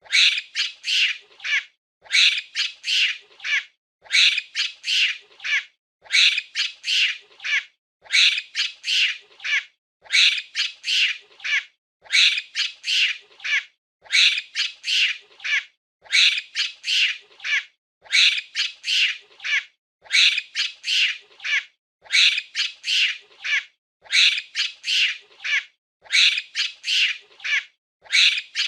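A monkey's chattering calls: a burst of four or five shrill, high-pitched shrieks. The same burst repeats about every two seconds with a short gap between, a looped sound effect.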